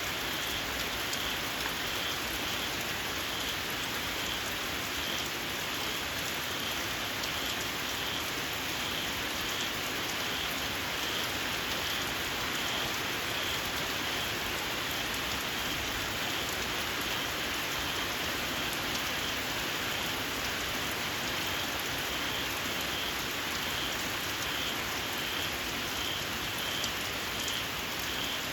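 Steady rain falling, with a small frog repeating a short, high-pitched call about once a second.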